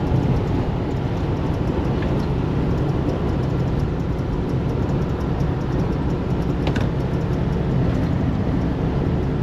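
Steady engine and road noise heard inside a semi-truck's cab while driving, with a couple of faint clicks.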